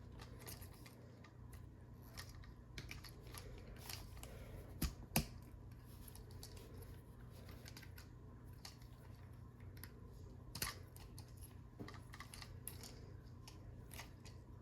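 Small plastic clicks and clacks from a Transformers Legacy United Leader Class Sandstorm figure's joints and parts as it is worked by hand through its transformation. A pair of sharper clicks comes about five seconds in and another past ten seconds, over a steady low hum.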